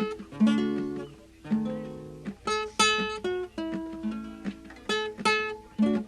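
Plucked acoustic string instrument played solo, without singing: picked single notes alternating with strummed chords in a lilting pattern.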